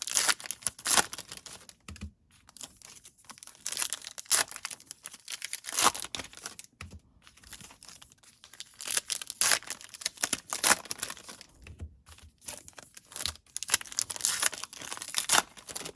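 Foil trading-card pack wrappers crinkling and tearing as packs are ripped open and handled, in irregular rustling bursts with short pauses.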